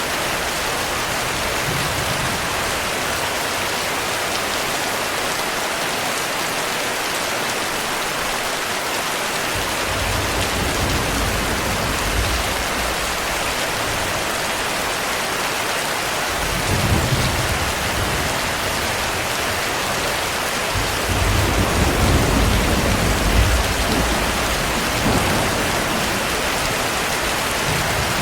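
Steady heavy rain hissing, with low rolling thunder rumbling in three swells: about a third of the way in, around the middle, and longest in the last third.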